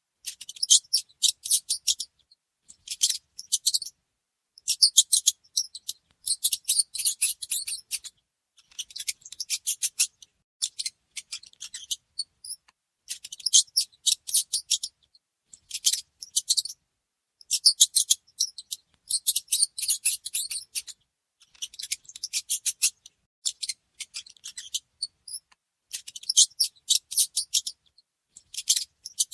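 Mice making rapid high-pitched clicking and scratching sounds in bursts of a second or two, with short gaps between them, over and over.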